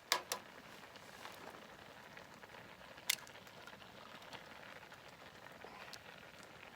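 Faint sizzling and crackling of green onions grilling, with a few sharp clicks: two near the start and one about three seconds in.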